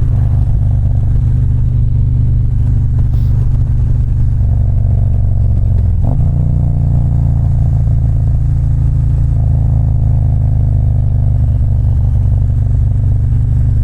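Harley-Davidson V-twin motorcycle engine running steadily under way, heard from the bike. About six seconds in the engine note dips briefly, then settles slightly higher, as with a change of throttle or gear.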